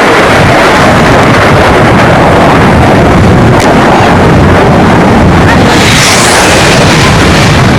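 Military fast jet's engines roaring as it flies a display pass, loud enough to fill the recording, with a harsher, hissier edge about six seconds in.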